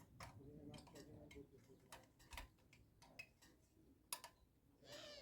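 Near silence: room tone with a few faint scattered clicks and a faint murmur; no engine running.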